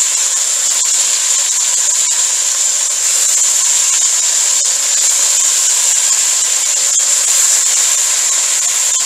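Marinated salmon cubes sizzling in hot oil in a wok as more pieces are set in with tongs: a steady high hiss with a few faint ticks.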